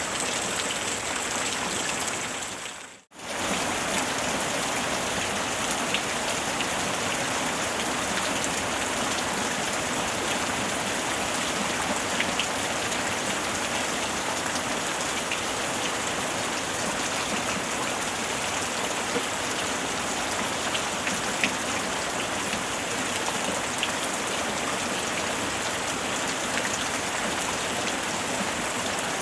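Steady rain falling: a dense, even hiss with scattered drop ticks. About three seconds in it fades out almost to silence for a moment and comes straight back at the same level, like a loop point in the recording.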